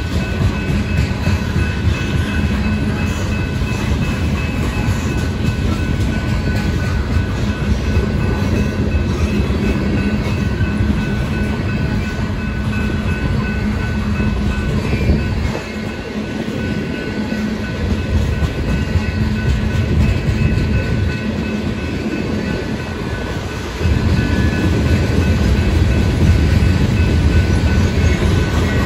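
Freight train of tank cars and covered hoppers rolling past at a grade crossing: a steady rumble and clatter of steel wheels over the rails, dipping slightly about halfway through and growing louder about 24 seconds in.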